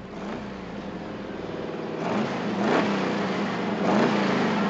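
Stunt car's engine revving as it runs up toward the jump ramp, its pitch dipping and climbing several times and growing louder from about two seconds in.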